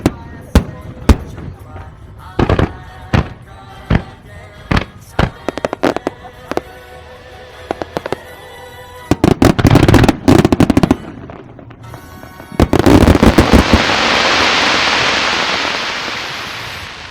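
Fireworks display: a string of sharp, separate shell bursts, then a dense salvo of rapid reports about ten seconds in. A final volley near the end turns into a long hissing crackle that swells and then fades.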